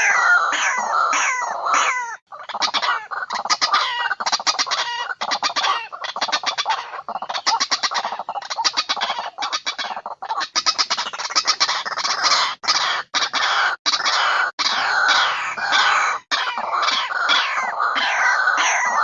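White-breasted waterhen calls, played as a looped lure recording: loud, harsh calling that alternates between repeated falling notes and long runs of rapid, stuttering croaks.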